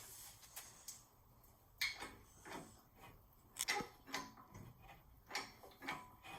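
Faint, irregular clicks and knocks from metal parts and lifting gear being handled while an engine is hoisted out.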